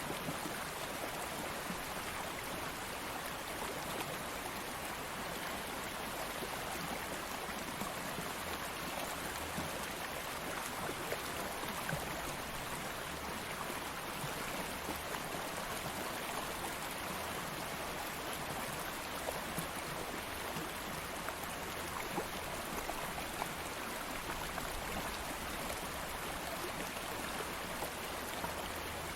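A stream of water flowing steadily, an even rushing and babbling with small splashes and drips scattered through it.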